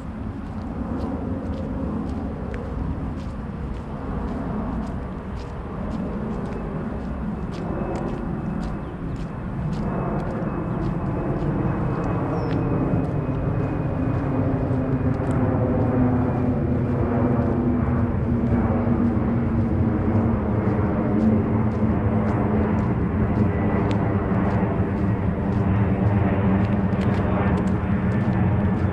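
Jet airliner flying overhead: a low engine rumble with a high whine that slowly falls in pitch, growing steadily louder.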